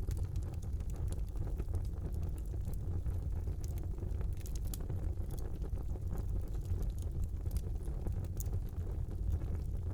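Fire burning in a brick fireplace: a steady low rumble of flames with scattered small crackles and pops.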